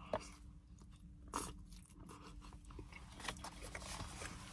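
A person biting and chewing food close to the microphone: a sharp crunch just after the start and another about a second and a half in, then quieter wet chewing with small clicks.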